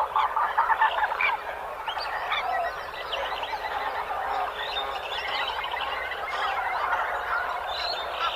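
Dense chorus of many small animals calling at once: a steady mass of short, overlapping calls.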